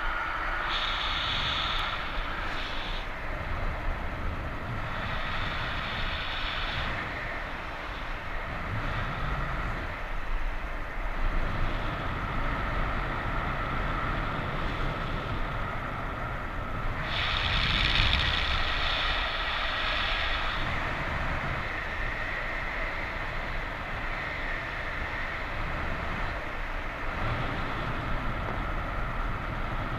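Wind rushing over the microphone of a helmet- or harness-mounted camera during a paraglider flight in strong wind: a steady low buffeting rumble with a hiss that swells and eases in gusts, loudest about two thirds of the way through.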